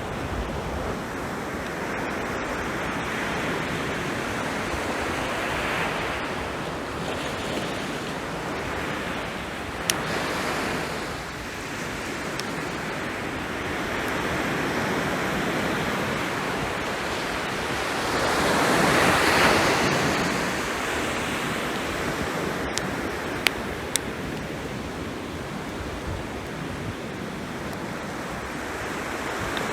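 Sea waves washing onto the shore in slow swells, the biggest surge about two-thirds of the way through. A few sharp pops stand out over the surf, twice in quick succession near the end.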